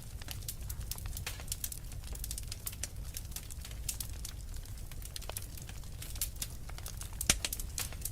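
Logs burning in a fireplace, crackling with many small sharp pops over a low steady rumble. One louder pop comes about seven seconds in.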